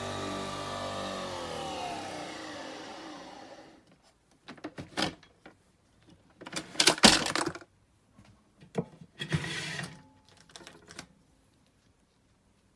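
Nespresso Vertuo Next's capsule-spinning motor running with a steady whine, then winding down in pitch and fading over about three seconds as it stops. Then a series of clicks and knocks, the loudest about seven seconds in.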